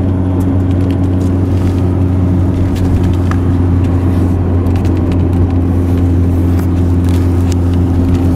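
Steady drone of a 1999 Ford Ranger pickup driving at an even pace, heard from inside the cab: a constant low engine hum with road and tyre noise over it.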